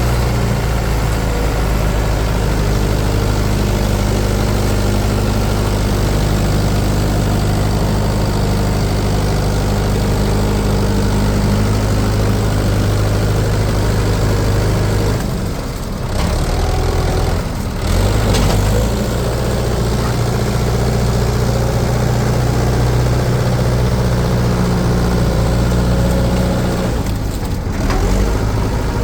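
Heavy diesel engine of a tractor or backhoe loader running steadily at a low idle. Its note breaks and shifts briefly about halfway through and again near the end.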